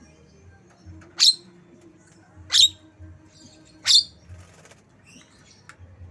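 Javan myna (jalak kebo) calling, in song said to mimic the white-rumped shama (murai batu): three loud, sharp, high calls about a second and a half apart, with soft scratchy chatter between them.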